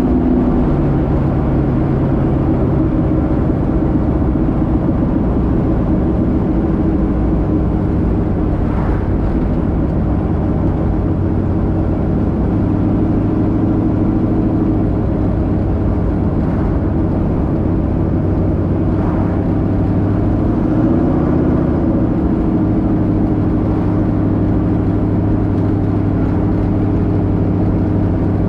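1972 Plymouth Duster's 408 cubic-inch V8 running steadily at cruising speed, with a brief shift in engine pitch about two-thirds of the way through.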